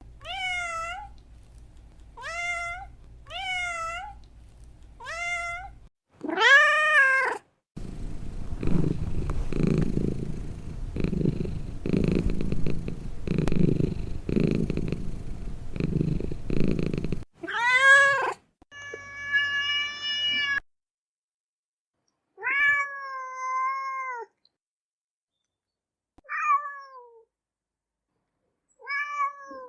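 Domestic cats meowing over and over: short arching meows about every second or two in the opening seconds, then longer, drawn-out meows later on. In the middle, for about ten seconds, a low rhythmic rumble of purring.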